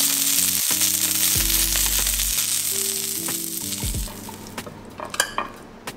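Sesame-crusted tuna searing in hot sesame oil in a nonstick frying pan, a steady sizzle that fades out about four seconds in. Background music plays throughout, and a few light clicks come near the end.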